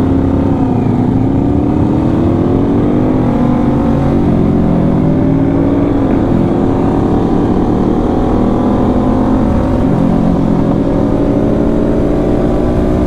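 Motorcycle engines running while riding in a group, their pitch rising and falling with the throttle and gear changes and climbing slowly over the last few seconds. The exhausts are loud.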